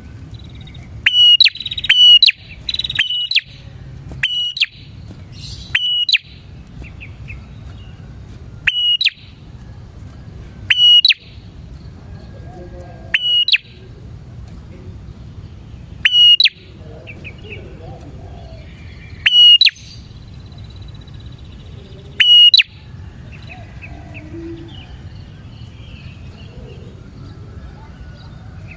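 Prinia (prenjak) calling: loud, short, sharp chirps, several in quick succession during the first few seconds, then single calls every two to three seconds, over a steady low hum.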